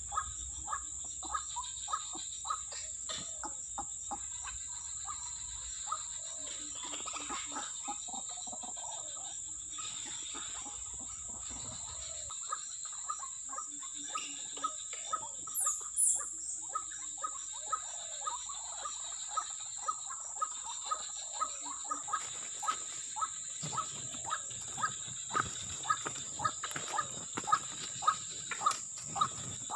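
Outdoor animal chorus: a steady high-pitched insect drone with many short repeated animal calls, which turn more regular and frequent, about one to two a second, from around two-thirds of the way in.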